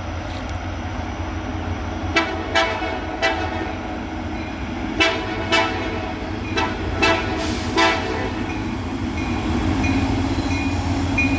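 Locomotive horn on an approaching CSX coal train sounding about eight short toots, over the steady low rumble of its diesel locomotives.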